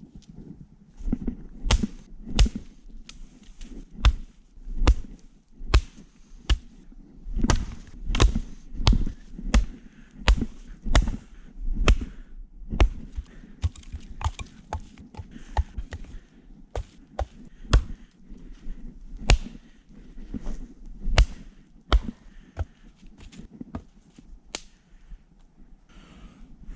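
A long run of sharp, irregular knocks and cracks, about one or two a second, each with a dull thump beneath it, growing sparser near the end.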